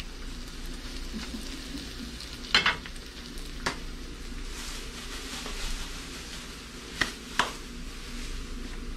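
Sliced ginger frying in hot oil in a wok, a steady sizzle as it browns. Four sharp knocks cut through the sizzle, at about two and a half seconds, once more a second later, and twice close together near the end.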